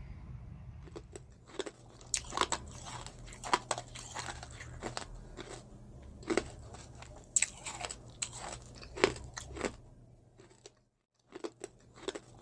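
Close-miked crunchy chewing of raw cucumber salad: irregular crisp crunches as bites are taken and chewed, with a short pause near the end before the crunching resumes.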